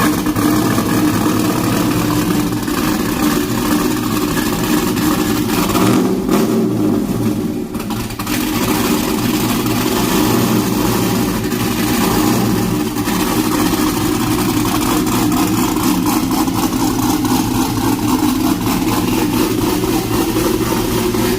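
Cammed GM LS V8 running steadily and loudly through a Corsa exhaust, with the lumpy idle, or cam lope, of a big aftermarket camshaft.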